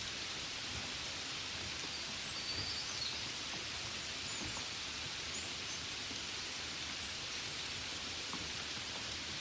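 Steady rain falling, an even hiss, with a few faint high chirps about two to three seconds in and again around five seconds.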